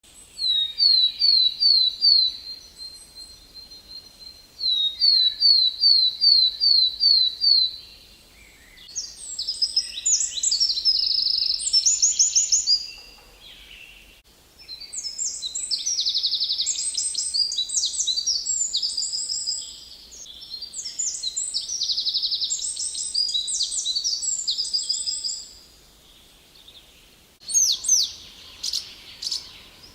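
Songbirds singing: twice in the first eight seconds a phrase of quickly repeated, falling high notes, then long, rich, varied songs, and a few sharp chirps near the end.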